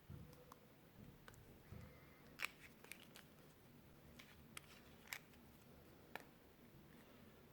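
Clear slime and crushed eyeshadow worked by hand, giving faint scattered sharp clicks and crunchy crackles, about a dozen, the loudest about two and a half seconds in, with a few soft low thuds in the first two seconds.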